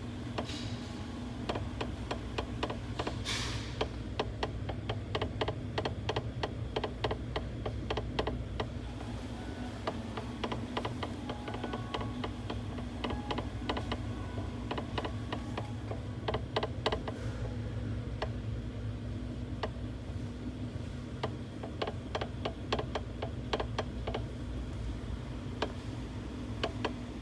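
Rapid, irregular clicking and creaking from a 2015 Toyota RAV4 2.0's steering as the wheel is rocked a little left and right, over a steady low hum. It is a long-standing steering noise on small turns, on a car that has covered 220,000 km, and it comes with a gritty feel at the wheel.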